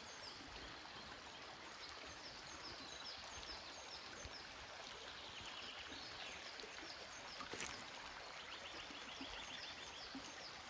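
A forest stream running steadily, with birds calling over it in repeated short, high, falling notes, and a fast trill about halfway through and again near the end. A single sharp click comes about two-thirds of the way in.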